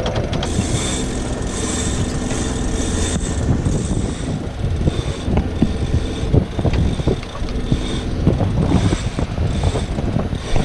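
Sailboat under way under engine and sail: a steady low engine rumble mixed with the rush of wind and water, with irregular light knocks and clatters from about six seconds in.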